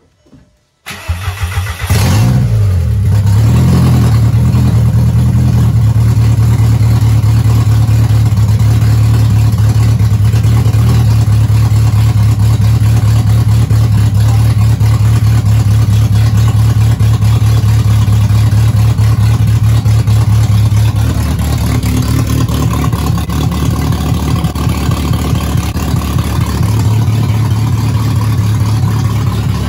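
A VW Golf race car's four-cylinder engine with a big aftermarket cam is started for the first time. It catches about a second in with a sputter and a quick flare of revs, then runs at a loud, choppy, lumpy idle ('brap brap brapping') through a very short open exhaust. The idle drops a little in volume for a few seconds past the middle, then comes back up.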